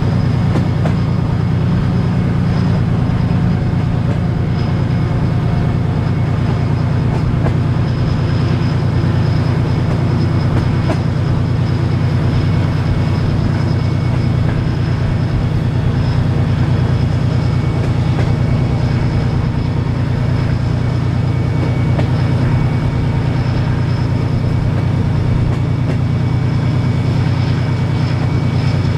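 Diesel-hauled passenger train heard from an open carriage window: the locomotive's engine drones steadily and low while the wheels run over the rails.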